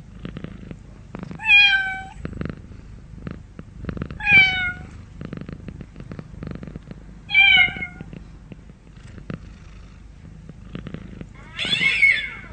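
Domestic cat purring steadily, with three short, high, pitched calls about three seconds apart and a harsher, rougher call near the end.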